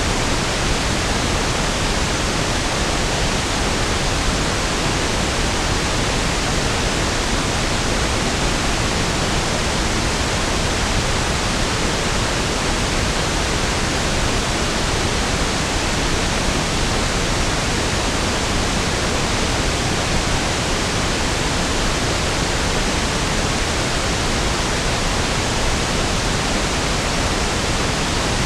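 Steady pink noise (1/f noise): an even hiss spread across all pitches with equal energy per octave, unchanging throughout.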